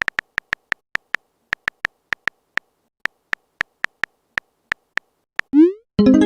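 Phone keyboard typing sound effect: a run of short, sharp taps at an uneven pace of about three to four a second. Near the end a short rising swoosh and a pitched chime, like a message being sent.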